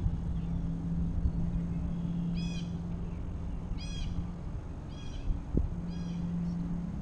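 A bird calling four times, short calls about a second apart, over a low steady hum. There is one brief knock near the end.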